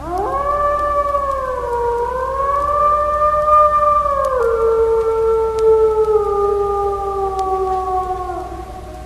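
Wolf howling: one long howl of about eight seconds that wavers and rises at first, drops in pitch about halfway through, then slowly falls until it ends.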